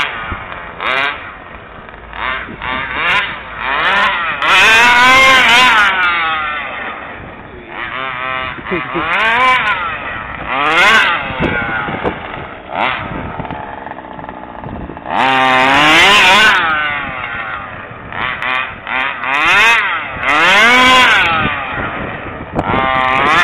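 Small 29cc two-stroke engine of an FG gas stadium truck, breathing through a DDM tuned pipe, revving hard in repeated bursts, its pitch sweeping up and falling back about five times, with lower-speed running between.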